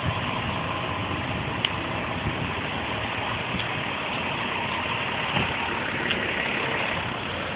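A vehicle engine idling steadily under even street noise.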